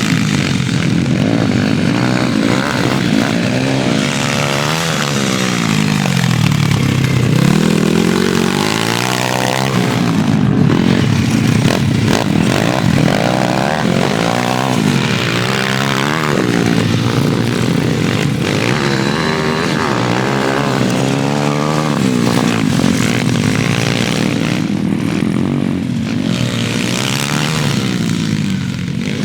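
Pit bike engine revving hard, its pitch climbing and dropping again and again as it accelerates and shifts or backs off for corners.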